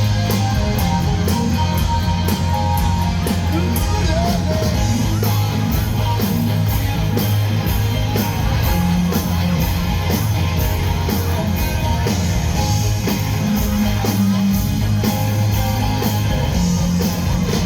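Instrumental passage of a rock song: guitar and bass over a steady drum beat, with no singing.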